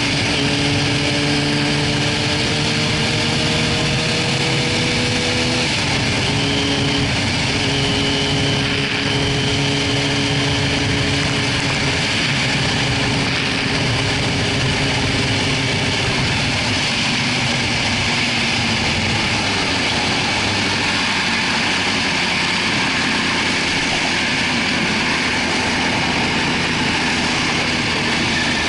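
2004 Yamaha YZF-R6's 600 cc inline-four engine running at freeway speed under heavy wind noise. The engine note climbs slowly, drops with a gear change about six seconds in, holds steady, then sinks gently lower as the bike eases off.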